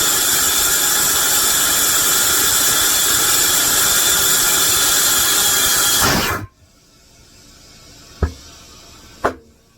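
Compressed air hissing steadily and loudly into a caravan tyre through its valve while the bead is seated with a tyre cheater; it cuts off abruptly a little after six seconds in. Two sharp knocks follow near the end.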